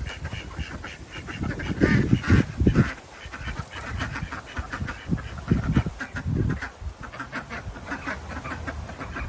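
Ducks quacking, short repeated calls, over low, irregular rumbling.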